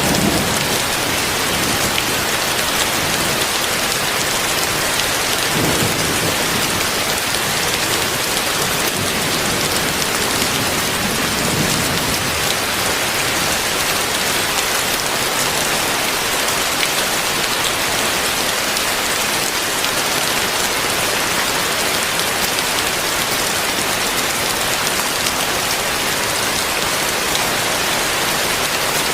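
Heavy rain falling steadily and densely on surfaces, with low rumbles of thunder swelling briefly about six and again about eleven seconds in.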